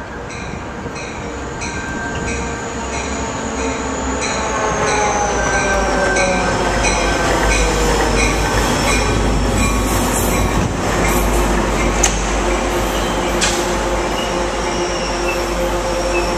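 A Coaster commuter train led by an F40PH diesel locomotive pulls in and rolls past: a bell rings rapidly, about three strikes a second, fading out as the locomotive comes by. The engine's tones slide down in pitch as it passes, and a growing rumble of wheels on rail follows, with a steady high squeal as the train slows into the station.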